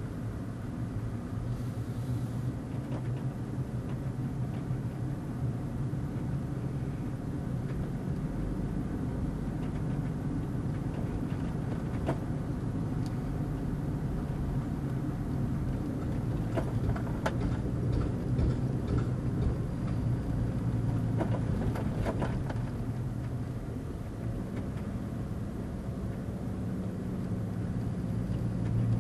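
Subaru Forester engine and road noise under steady load on a steep climb, with scattered sharp clicks and pops, thickest in the middle stretch. The clicks are the TorqMaster lunchbox auto locker ratcheting as the wheels turn at different speeds in tight turns.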